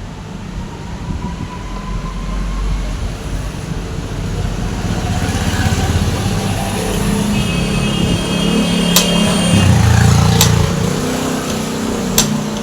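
Road traffic: a vehicle passing close by, its low rumble swelling and fading over several seconds, with three sharp clicks near the end.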